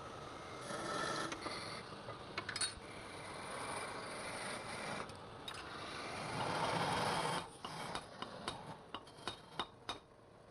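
A tool scraping and rubbing on wood in rough passes, loudest a little past the middle, then a quick run of light clicks and knocks near the end.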